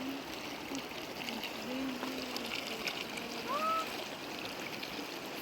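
River water flowing steadily, with a couple of short faint voice sounds and one brief rising call about three and a half seconds in.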